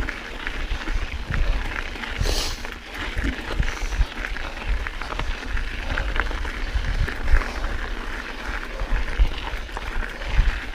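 Mountain bike being ridden up a climb on a dirt singletrack: tyres on dirt and rock with a steady low rumble and many small knocks and rattles from the bike. There is a brief hiss about two seconds in.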